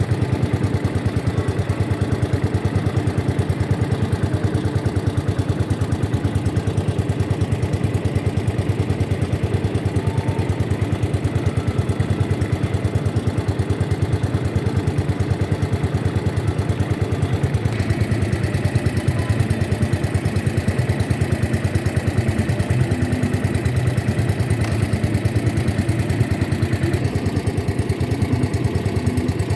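Boat engine running steadily at an even speed, close by.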